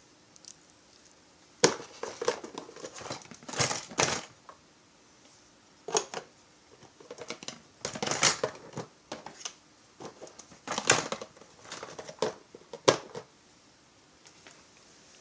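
Hand work on small parts at a workbench: irregular sharp clicks, taps and crinkling in clusters, with short quiet gaps.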